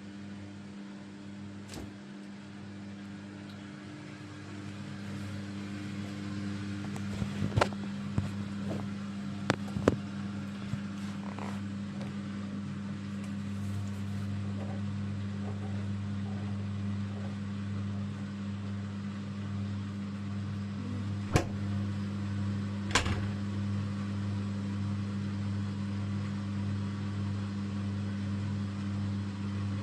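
Bosch Avantixx 6 front-loading washing machine running mid-cycle with a steady motor hum that grows louder about five seconds in, with a few sharp clicks or knocks along the way.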